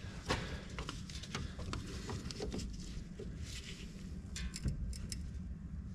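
Scattered light clicks and knocks of hands and filter pliers working at a tight, dry-fitted fuel filter on a tractor engine, over a steady low rumble.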